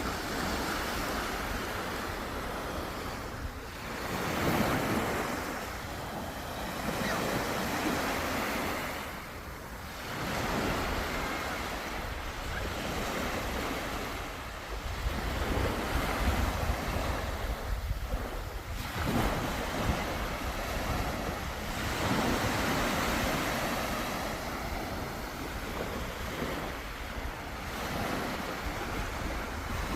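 Sea waves breaking on a shore, the surf swelling and fading in surges every few seconds, with wind rumbling on the microphone.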